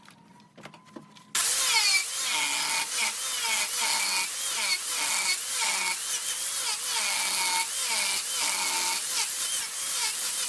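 Wood lathe with a cutting tool on the spinning wood: after a second and a half of quiet with a few clicks, a loud cutting noise starts suddenly. It carries a screech whose pitch rises and falls about twice a second.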